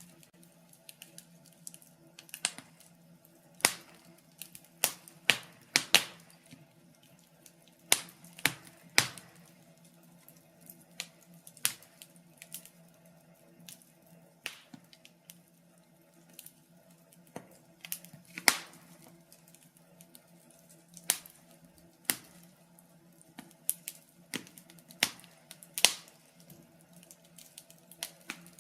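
Burning logs crackling in a fireplace: irregular sharp pops and snaps, a few much louder than the rest, over a faint steady hum.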